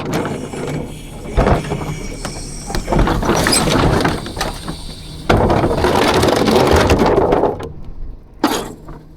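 Rear-loader garbage truck at work: knocks and a squeal, then a loud stretch of rumbling, crunching noise for a couple of seconds, ending with a sharp knock.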